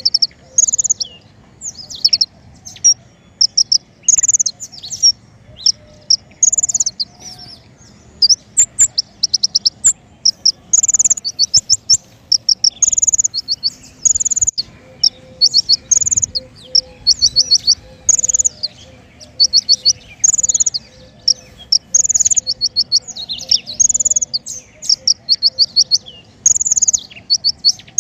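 Small songbird, the bird called King Konin, singing a lure song of rapid, high-pitched phrases of quickly repeated notes, one phrase after another about every second without a break.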